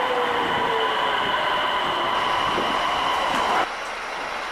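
Öresundståg electric train running along the platform: a whine falling in pitch over a steady higher whine and the train's rumble. It cuts off abruptly near the end, leaving quieter street noise.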